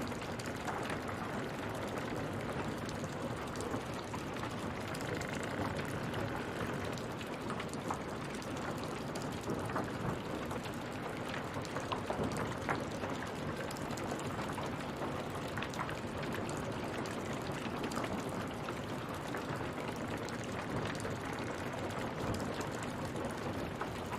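Steady water sound: a continuous wash dotted with many small drops and splashes, like rain or falling water.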